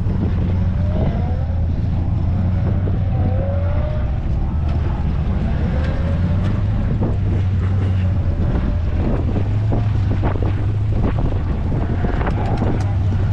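A motor vehicle engine running steadily with a low hum, with wind on the microphone and a few scattered clicks and knocks.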